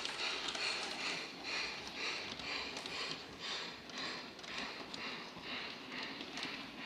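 Bachmann Big Hauler G-scale model steam locomotive's sound unit chuffing steadily at about two hissing chuffs a second as the train runs slowly.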